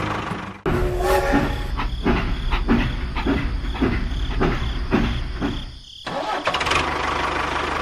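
Engine running, with abrupt cuts. Between about one and six seconds in it beats in a regular rhythm, about three pulses a second, then drops out suddenly and returns to a steady run.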